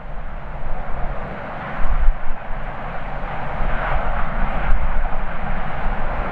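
Departing jet airliner's engines under thrust, a broad rushing noise that swells about four seconds in, with strong gusty wind buffeting the microphone as a low rumble underneath.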